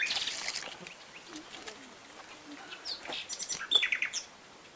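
Wild birds chirping: a run of short, high chirps about three to four seconds in, after a brief noisy rustle at the very start.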